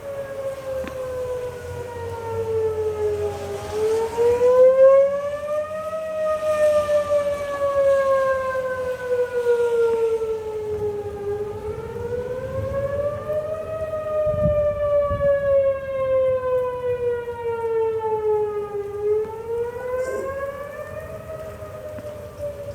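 Outdoor civil defense warning siren sounding a slow wail, its pitch falling and rising again about every seven to eight seconds: the alert for a tornado warning.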